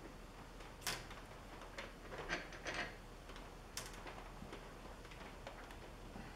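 Scattered light clicks and clinks of small metal parts being handled as an old quick-change tool post's handle and tower are taken apart, with a sharper knock about a second in and another near four seconds.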